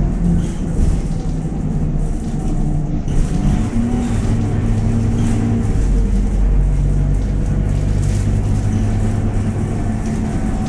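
Scania K230UB city bus's five-cylinder diesel and ZF automatic gearbox pulling under load. The pitch shifts about three seconds in, as at a gear change, then holds in a steady drone.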